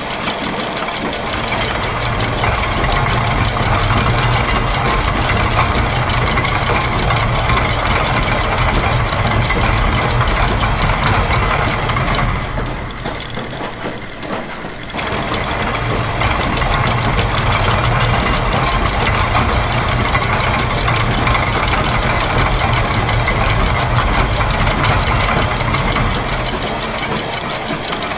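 Layered loops of factory machine sounds (gears, press, ratchets and clockwork) running together as a dense mechanical clatter over a steady low hum. About halfway through, the high clatter drops away for a few seconds, then comes back.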